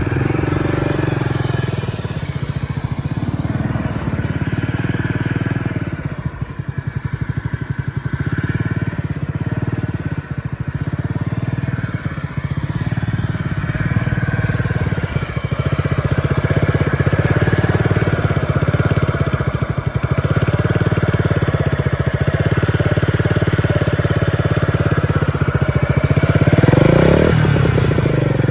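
Honda Zoomer scooter's four-stroke single-cylinder engine idling steadily, then revved near the end with its pitch rising.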